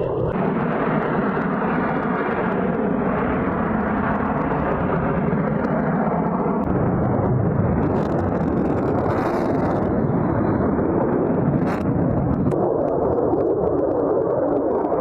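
F-22 Raptor fighter jet's engines, a loud continuous jet noise that swells and eases slightly without breaking.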